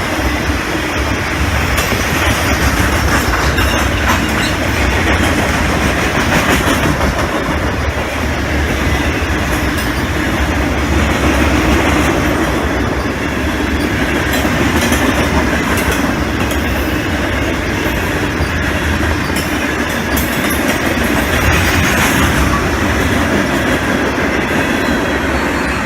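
Loaded ballast cars of a long freight train rolling past, a steady wheel-on-rail rumble with clickety-clack from the wheels crossing rail joints.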